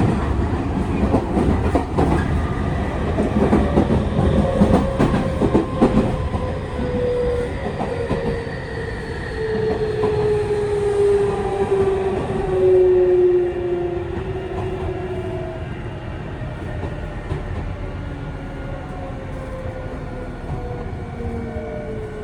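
Tokyu 5000 series electric train heard from inside a motor car, with the whine of its Hitachi IGBT-VVVF inverter and TKM-98 traction motors. Wheels click over rail joints in the first few seconds, then the motor tones glide steadily down in pitch as the train slows.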